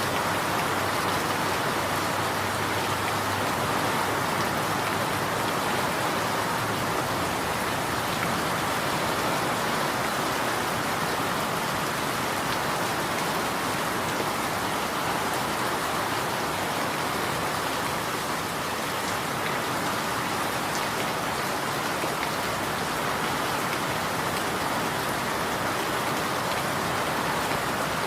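Steady rain falling on a surface, an even hiss of many drops with no breaks or changes.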